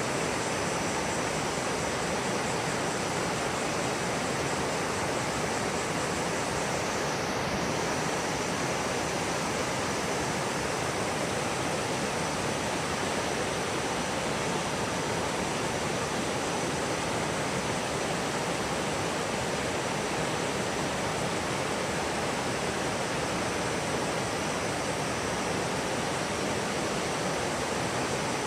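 Steady rushing of flowing water, an even, unbroken noise with no distinct events.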